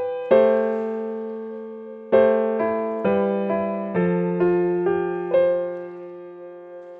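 Slow, gentle piano music: single notes and chords struck about once a second and left to ring out, fading near the end.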